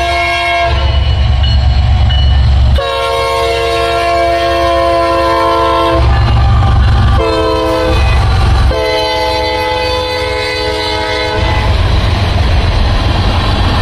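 Diesel freight locomotive horn blowing long, long, short, long, the standard signal for a grade crossing, over the deep rumble of the lead engines passing close by. After the last blast, freight cars roll by with a steady rumbling rush.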